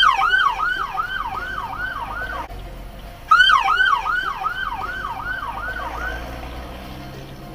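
Emergency vehicle siren on a fast yelp, sweeping up and down about three times a second. It cuts off about two and a half seconds in, starts again almost a second later, then stops near the end.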